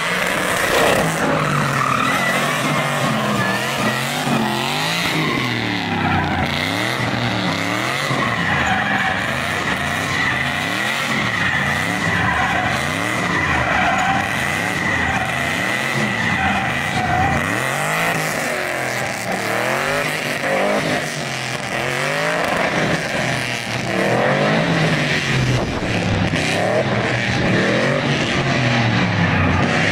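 LS V8 in a box Chevy revving up and falling back again and again, with the rear tyres squealing steadily as they spin through a smoky burnout and donuts.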